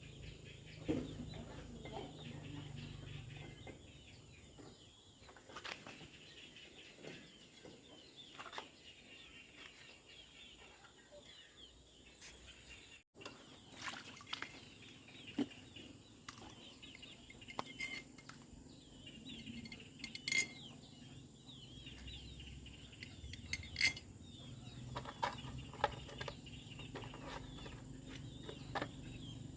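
Quiet ambience of birds chirping, with scattered light clinks and knocks.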